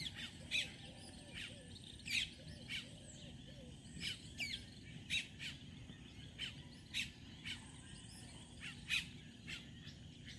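Birds chirping: many short, sharp calls that sweep down in pitch, coming irregularly about once or twice a second, with a few lower, softer notes repeated in the first few seconds, over faint steady background noise.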